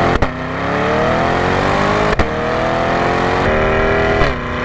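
C8 Corvette Stingray's naturally aspirated 6.2-litre V8, exhaust in its loud setting, accelerating through the gears. The engine note climbs, then drops at two quick dual-clutch upshifts about two seconds apart, each marked by a sharp exhaust crack. The note drops once more near the end.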